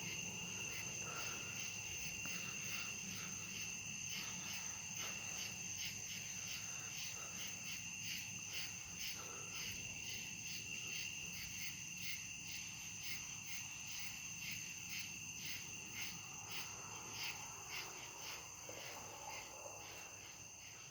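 Crickets chirping at night: a steady, high, pulsing trill that fades slightly toward the end.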